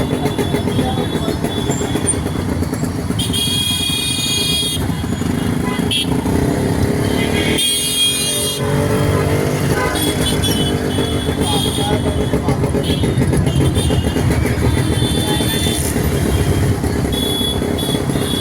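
Motorcycle engine running steadily while riding in traffic. Vehicle horns honk several times, with a long blast about three seconds in and another about eight seconds in.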